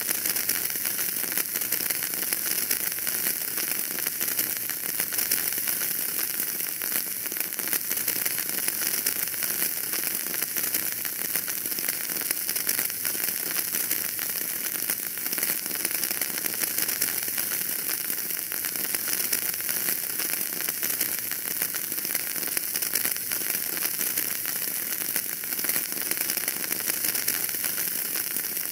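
Wood fire crackling steadily, a dense run of small pops and snaps over a constant hiss.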